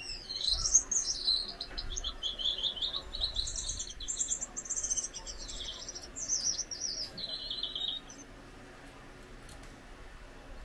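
Gouldian finch singing: a run of rapid, high, buzzy pulsed notes lasting about eight seconds, then stopping.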